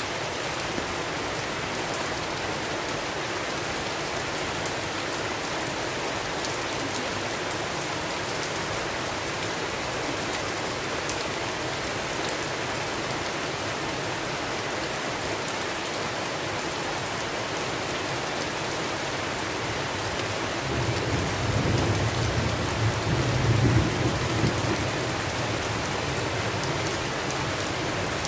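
Steady rain falling on a surface, an even hiss with fine drop ticks. About two-thirds of the way through, a low rumble of thunder swells in, peaks, and eases off.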